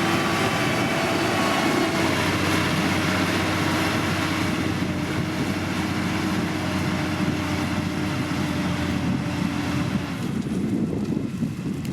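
Heavy road-construction machine's diesel engine running steadily under load, its pitch holding level and then fading about ten seconds in as the machine eases off or moves away.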